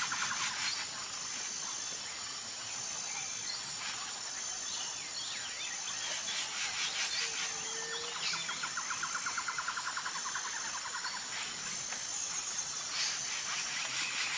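Outdoor animal chorus: a high, thin insect trill coming and going in short stretches, with scattered chirps. A rapid pulsing trill lasts about three seconds in the middle, and a short low note sounds once.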